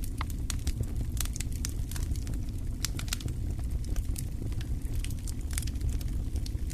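Fireplace wood fire crackling: frequent sharp, irregular pops and snaps over a steady low rumble.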